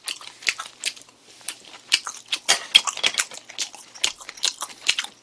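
Close-up chewing of a piece of grilled pork jowl (hangjeongsal): a quick, irregular run of short mouth clicks and smacks.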